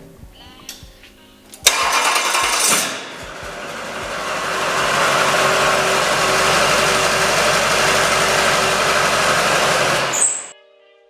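LB7 Duramax 6.6-litre V8 turbodiesel firing up on an engine stand: it catches suddenly a little under two seconds in, dips, then builds to a steady loud run. It cuts off suddenly about ten seconds in.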